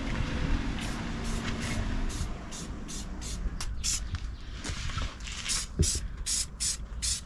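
Paint being sprayed in short hissing bursts, a few a second and coming faster in the second half, laying on a heavy coat, over a steady low rumble.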